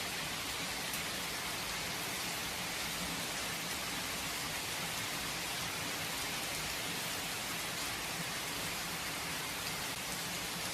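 Steady rain falling, an even hiss of many drops hitting a surface with no thunder.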